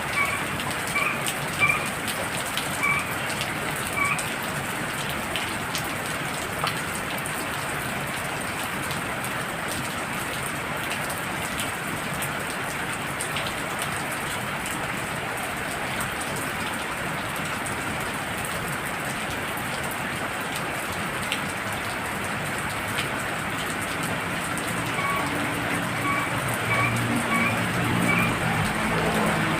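Heavy rain falling steadily. A frog calls in short notes repeated about once a second during the first few seconds and again near the end, when lower calls join in.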